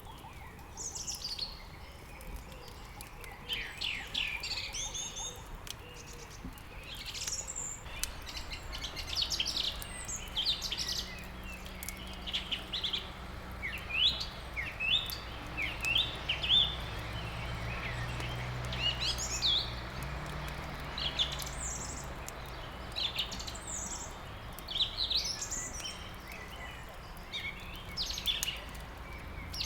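Several songbirds chirping and singing, with many short high calls and trills overlapping throughout. A low steady hum underneath comes up about a third of the way in and fades again after about twenty seconds.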